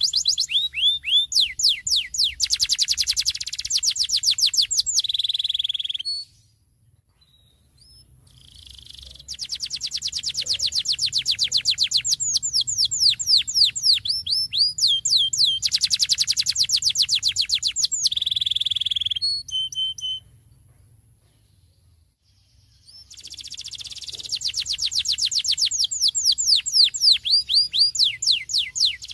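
Domestic canary singing a rolling song: long runs of rapid, repeated downward-sweeping notes and trills, in three bouts separated by short pauses.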